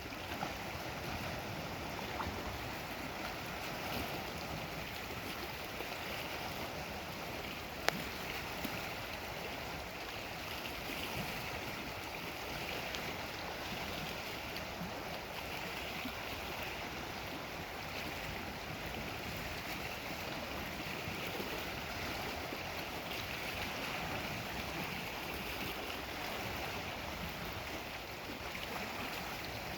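Lake Superior waves washing against the shore: a steady wash of water noise, with one sharp click about eight seconds in.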